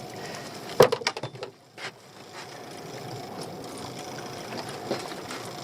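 Small boat's engine idling steadily, with a sharp knock and a quick run of clicks about a second in.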